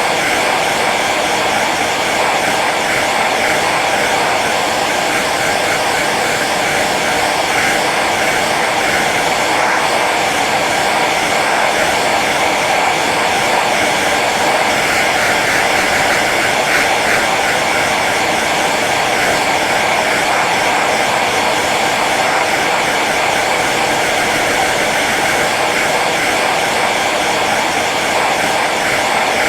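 Hair dryer running steadily on its low setting, a constant even whoosh of blown air and motor with no change in speed.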